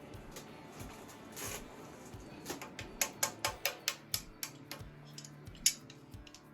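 Light, sharp metallic taps, a quick run of about a dozen then one louder tap near the end, as the cylinder-head alignment dowel pins are set into a 5.3 LS V8 block.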